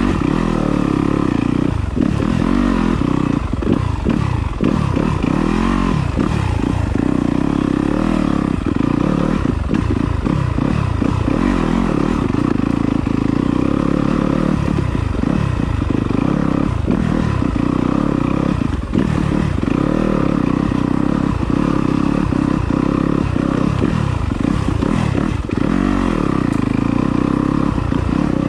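Yamaha enduro dirt bike engine running at low, steady trail speed, with frequent knocks and clatter from the bike picking its way over loose rocks.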